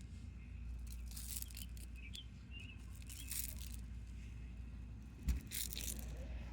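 Faint scrapes and rustles of toy animal figures being handled and moved, over a low steady hum, with one knock about five seconds in.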